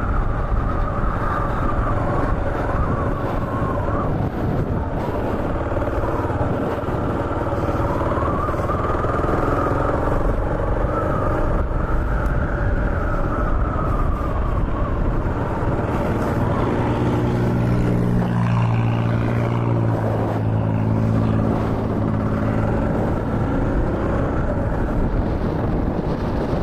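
Kawasaki KLR650's single-cylinder four-stroke engine running under way, its pitch rising and falling with the revs, strongest and lowest-pitched for a few seconds past the middle, over steady wind and road noise.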